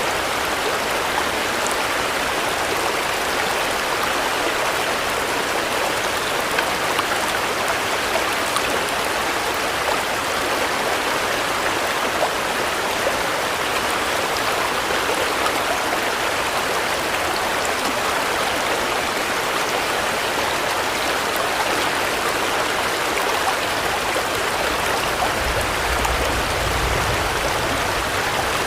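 Steady rain: an even hiss with scattered small drop ticks. A soft low rumble comes in briefly near the end.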